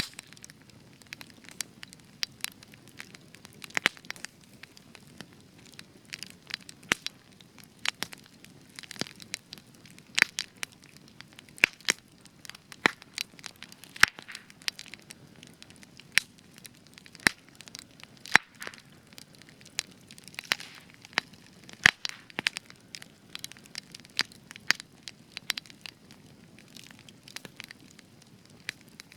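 Spruce-wood campfire crackling, with frequent irregular sharp pops and snaps over a soft, steady low rush of flame.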